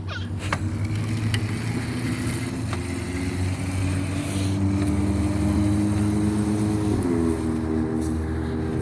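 Razor MX350 electric dirt bike's motor whining steadily under way, its pitch creeping slowly up as it gathers speed, with a sudden change in pitch about seven seconds in.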